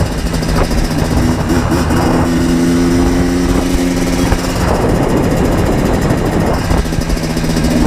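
Yamaha Blaster 200's two-stroke single-cylinder engine running while under way, holding a steady note that shifts pitch briefly about a second and a half in. A little past the middle the note turns rough and uneven for about two seconds, then settles again.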